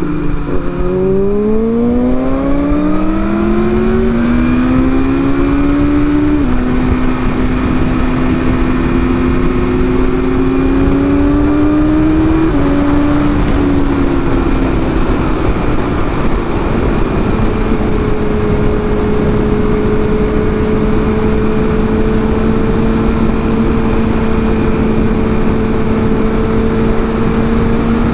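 Sport motorcycle engine accelerating hard, its pitch climbing and dropping back at each upshift three times in the first half, then settling into a steady cruise, with constant wind rush on the bike-mounted microphone.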